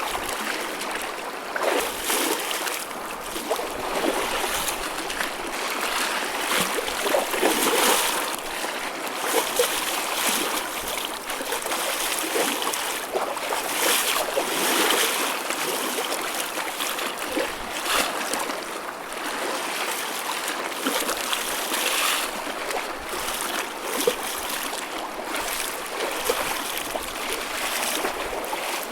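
Choppy sea water sloshing and splashing continuously, with many small irregular splashes and no single big breaking wave.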